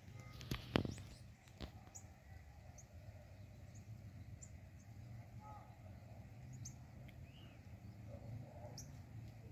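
Faint outdoor ambience with scattered brief, high-pitched bird chirps, a few seconds apart. A few sharp clicks sound in the first couple of seconds.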